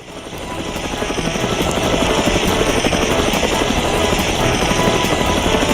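Helicopter rotor sound effect, swelling over the first two seconds and then holding steady with a rapid chop.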